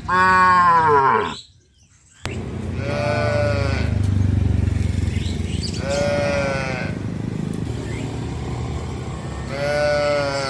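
Cattle calling: four separate calls of about a second each, the first the loudest and falling in pitch, over a low steady rumble.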